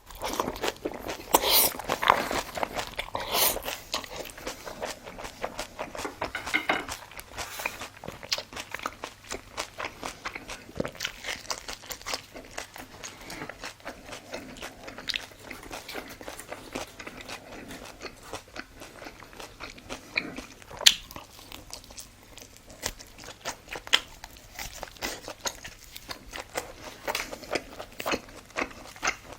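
A person eating close to the microphone: crunchy bites of food, then steady chewing with crackling, wet mouth sounds. The loudest crunches come in the first few seconds, and one sharp crunch comes about twenty seconds in.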